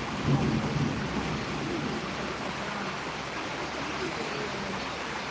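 Steady rushing noise of rain and wind in a storm, with a low rumble in the first two seconds.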